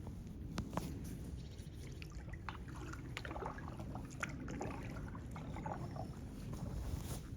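Kayak being paddled, with water dripping and trickling off the paddle in quick little plops and a few light knocks, over a steady low rumble.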